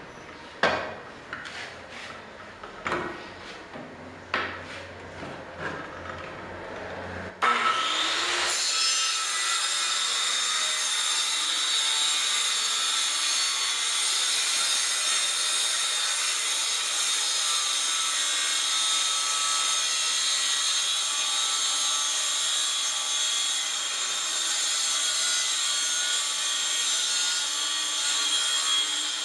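A few knocks and handling clicks, then about seven seconds in a handheld circular saw starts suddenly and runs steadily as it cuts a long straight trim pass through MDF.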